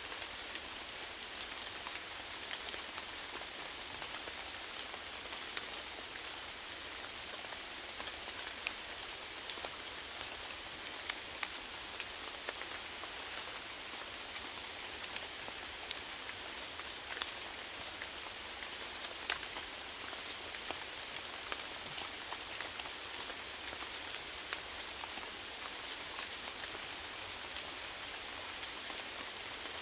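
Steady rainfall: an even hiss of rain with frequent sharp ticks of individual drops striking a surface.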